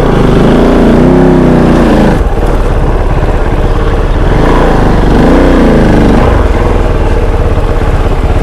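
Kove 450 Rally's single-cylinder engine revving up and easing off several times under riding, its pitch rising and falling, with the throttle chopped sharply about two seconds in.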